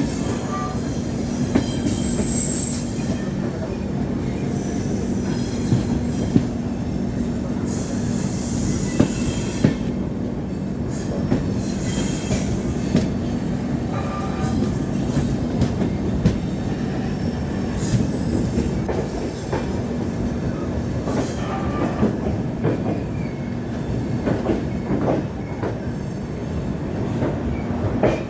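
Passenger express train running on the track, with a steady rumble and hum, scattered knocks of the wheels over rail joints, and a few brief high wheel squeals.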